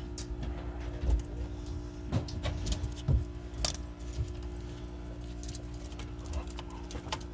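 Scattered metallic clicks and clinks of hand work on a shifter cable's end and coupler, over a steady low hum.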